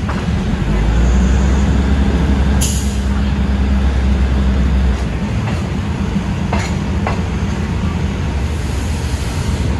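Train running on the rails: a steady rumble with a deep engine drone for the first few seconds, then a few sharp clicks.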